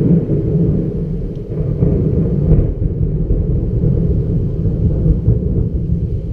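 Loud, continuous rumble of thunder from a nearby lightning strike.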